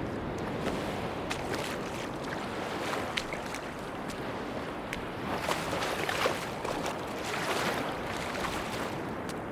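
Sea waves washing onto a beach in a steady rush, swelling twice in the second half as waves break and run up, with scattered small sharp clicks over the top.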